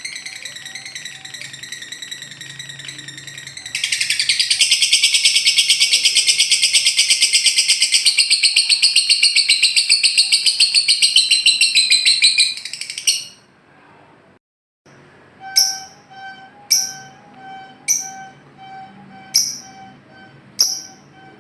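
Recorded lovebird song: a long, loud, rapid trill (the lovebird's 'ngekek') running for about nine seconds after a few seconds of steady calling, then, after a brief pause, a series of sharp chirps about once a second.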